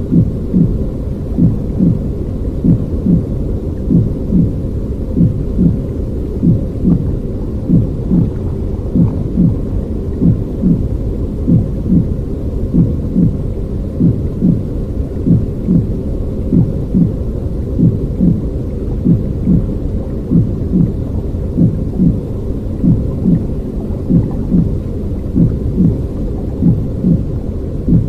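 Baby-soothing noise track: a steady low rumbling noise with a soft, regular pulse about every two-thirds of a second.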